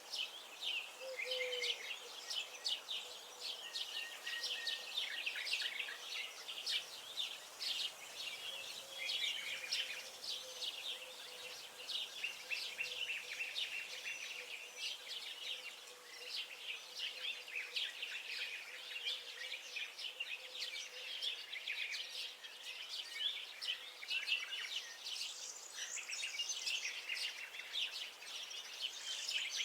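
Many songbirds chirping and singing at once, a dense unbroken chorus of short overlapping chirps and trills, with a faint steady hum beneath.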